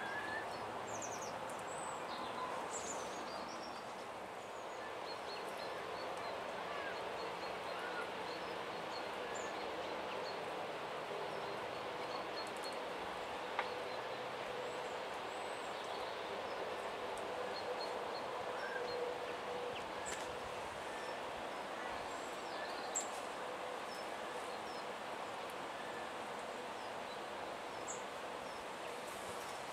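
Outdoor background noise, a steady hiss, with scattered faint high bird calls and chirps.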